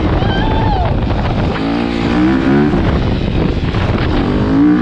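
Motorcycle engines, dirt bikes, revving in a few rising and falling surges.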